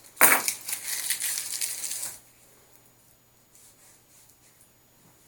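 Rough scraping and rustling noise for about two seconds, beginning with a sharp knock, then quiet.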